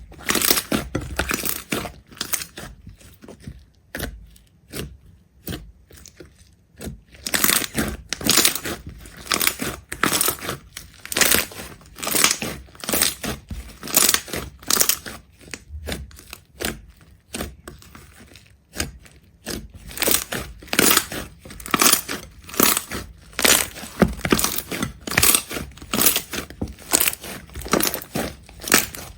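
Repeated short, crisp crunching sounds, several a second, with a pause about four to seven seconds in and a shorter one around nineteen seconds.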